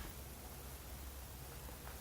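Quiet background: a faint steady hiss with a low hum underneath, and no distinct sound events.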